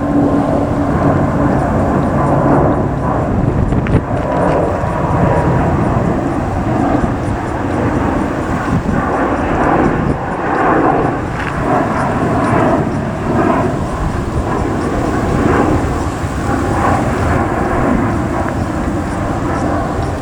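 Jet airliner's engines, a loud, steady rumble.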